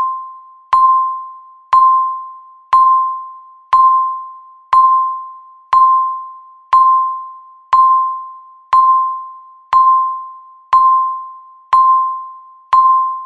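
Countdown timer ticking off the seconds: a sharp electronic ding at one steady pitch, struck once a second, each fading away before the next.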